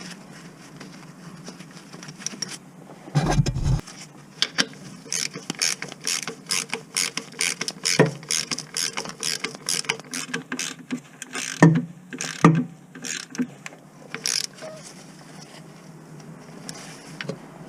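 Ratchet wrench clicking in quick, uneven runs as bolts are turned, with a heavy thump about three seconds in and two sharp metallic knocks a little past the middle.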